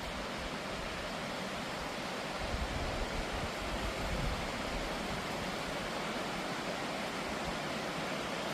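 Suuçtu Waterfall's falling water, a steady, dense rushing roar, with a few low rumbling bumps in the middle.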